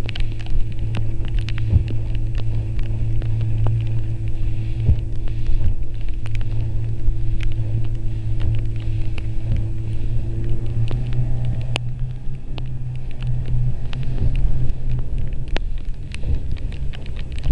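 Motorboat engine running steadily at speed, its pitch rising slightly about two-thirds of the way through, with scattered sharp knocks over it.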